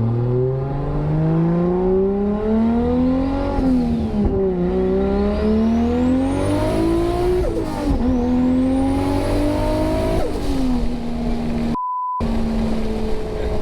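A 600-horsepower Toyota Supra's engine accelerating hard through the gears. Its pitch climbs, drops sharply at each of three upshifts (about 3.5, 7.5 and 10 seconds in), then settles to a steady cruise. A short censor beep cuts in near the end.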